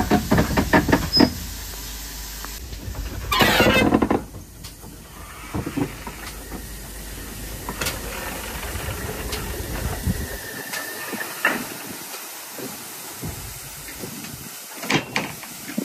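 Pannier tank steam locomotive working, with quick exhaust beats for about the first second, then a short loud burst of steam hiss about three seconds in, followed by quieter running noise with a few knocks near the end.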